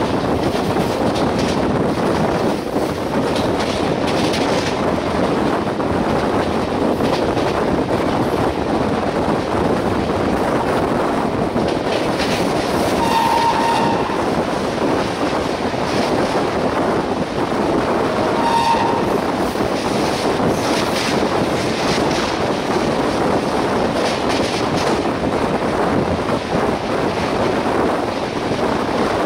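Running noise of a fast express train heard from an open coach doorway: wheels on rail and wind, with scattered clatter over rail joints. Two short horn blasts, from the train's WAP-7 electric locomotive, come about 13 and 18 seconds in.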